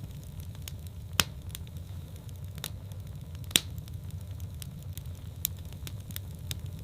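Wood fire burning in a fireplace: a steady low rumble of flames with scattered sharp crackles and pops, two of them louder, about a second in and near the middle.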